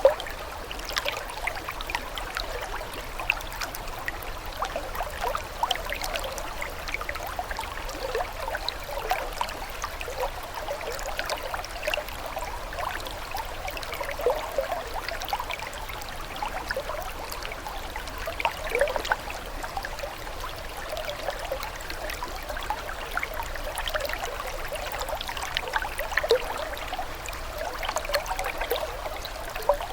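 Water trickling and burbling steadily: a light, continuous patter of small bubbling splashes with no deep rumble.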